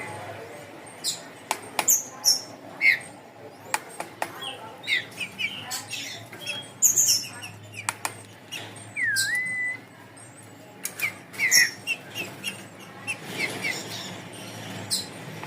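Songbirds chirping: many short, high chirps scattered throughout, with one whistled note about midway that rises and then holds steady, and a few sharp clicks.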